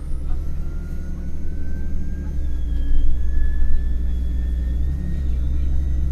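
MAN NL253 Hybrid city bus under way, heard from inside: a loud, steady low rumble with a thin whine from the drivetrain rising slowly in pitch as the bus gathers speed. A fainter, higher whine joins about halfway through.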